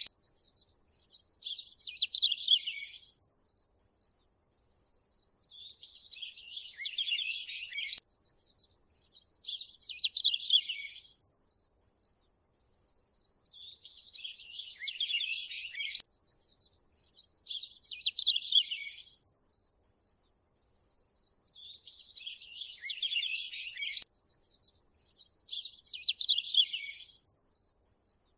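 Nature ambience: a steady high hiss with short bursts of bird chirping about every four seconds. The pattern repeats every eight seconds as a loop, with a faint click at each join.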